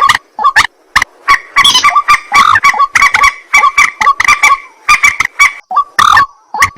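White-breasted waterhen calling: a loud, fast run of short repeated croaking notes, several a second, with a brief pause near the end.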